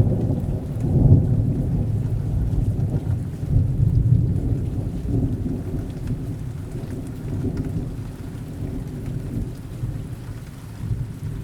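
Rolling thunder over steady rain: a deep rumble that swells about a second in and again around four seconds in, then slowly fades.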